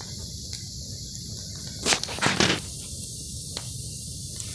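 Bonfire of very wet wood burning with a steady hiss and scattered crackles, and a cluster of loud sharp cracks about two seconds in.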